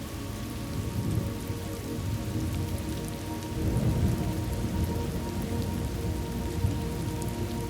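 Steady rain falling with low rolling thunder, which swells a little about halfway through.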